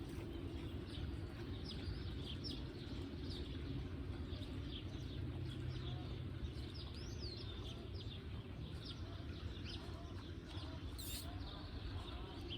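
Birds chirping: many short, high chirps, one after another, over a steady low rumble.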